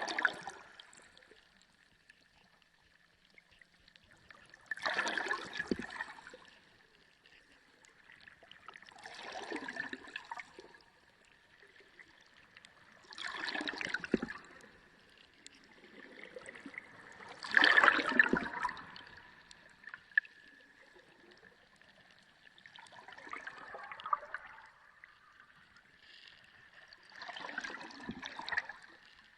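Underwater sea sound: repeated surges of rushing, bubbling water, each lasting a second or two and coming about every four to five seconds, over a faint steady high tone.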